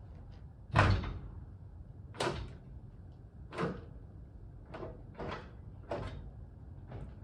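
A series of about six irregular clunks and knocks, the first and loudest about a second in, from hand work under a car with a jack and tools.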